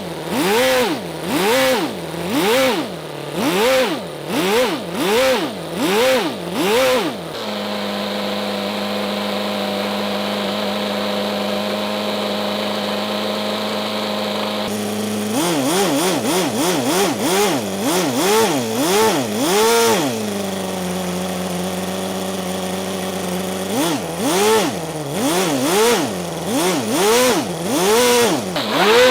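Toyan FS-L400 miniature four-cylinder nitro engine being revved in quick repeated throttle blips, each a rising then falling note. About a quarter of the way in it settles to a steady run at one pitch for several seconds, blips again, holds steady once more, then goes back to blipping near the end.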